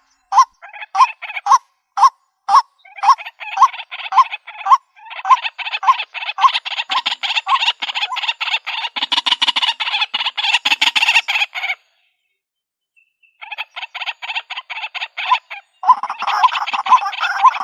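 White-breasted waterhen calling: a long series of short repeated notes, spaced out at first and then quickening to several a second. The calling stops for about a second and a half past the middle, then starts up again.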